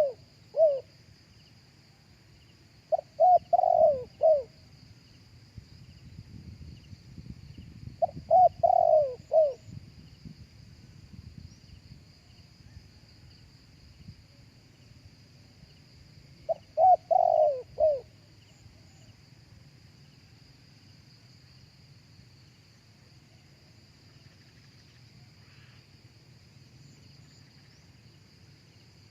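Spotted dove cooing in phrases of several quick, low notes, with long pauses between them. One phrase is ending as the clip opens, and three more follow several seconds apart. After the last one, about two-thirds of the way through, only a steady high insect whine remains.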